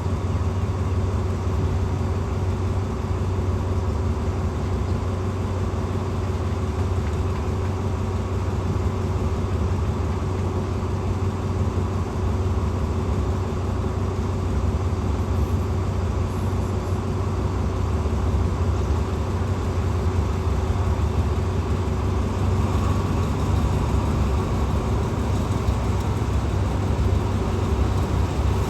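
Diesel train engine idling steadily, a continuous low hum with a steady tone over it. It grows a little louder near the end.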